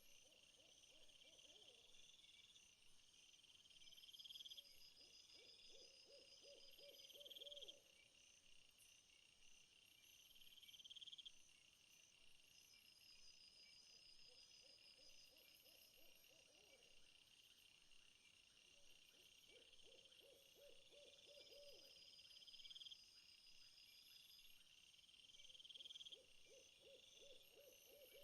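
Faint chorus of crickets and other insects chirping in repeated high trills. A low, rapidly pulsed animal call of about two seconds recurs every five or six seconds.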